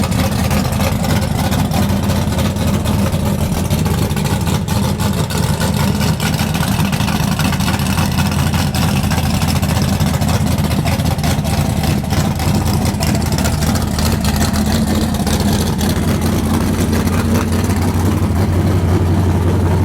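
A loud race car engine running steadily, its pitch rising a little near the end.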